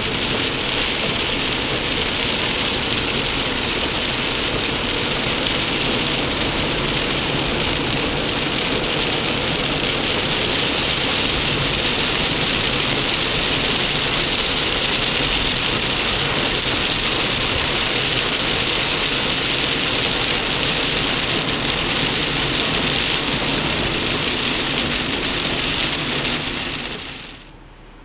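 Steady running noise of a car on the move, heard from inside: engine and road noise as one even hiss. It fades out near the end.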